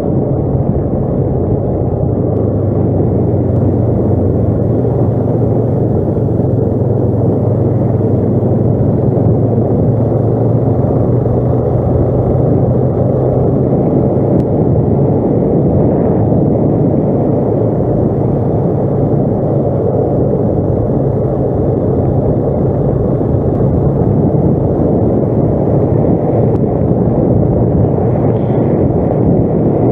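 ATV engine running steadily while riding, with a low hum that weakens about halfway through and a continuous rumble.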